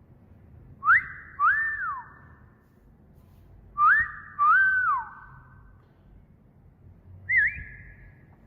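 Wolf whistle repeated twice, about three seconds apart: each is a quick rising note and then a note that rises, holds and falls away, with an echoing tail. A short wavering whistle comes near the end.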